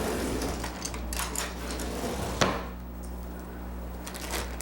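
Kitchen handling noises: chopsticks clicking and a plastic bag of marinated chicken rustling, with one sharp knock about two and a half seconds in.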